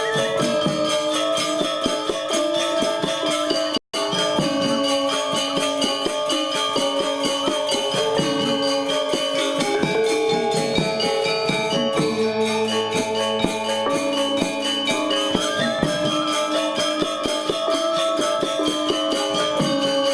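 Balinese gamelan gong ensemble playing a classical lelambatan piece: layered ringing metallophone tones over rapid jingling cymbal strokes at a steady level. The sound cuts out for a split second about four seconds in.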